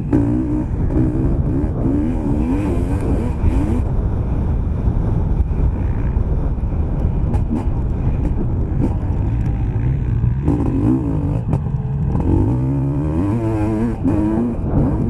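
Motocross bike engine revving hard under race throttle, its pitch climbing and dropping again and again as the rider works the throttle through the corners and straights.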